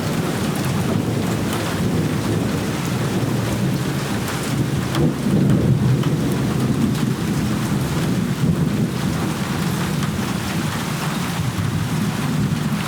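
Steady heavy rain falling, with a low rumble of thunder that swells about five seconds in and fades again.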